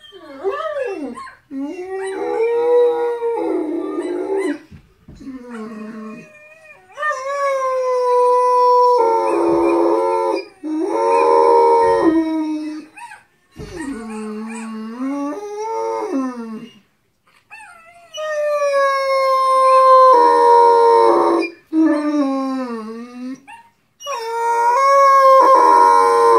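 Great Dane howling: a run of about six long howls, each a few seconds, sliding up and down in pitch with short breaks between, at times with a second howl overlapping.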